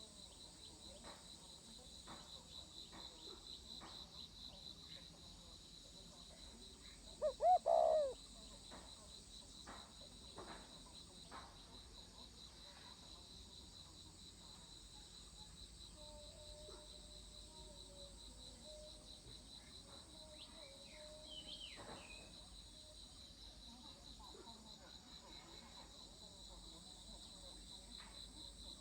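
Crickets trilling steadily in a high, even pulse throughout. About seven seconds in, a spotted dove gives a short, loud coo of two or three low notes. Fainter low cooing and a brief higher call come later.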